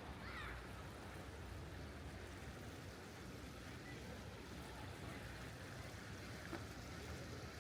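Steady outdoor city background noise: a low, even hum under a faint hiss, with a brief snatch of a distant voice right at the start.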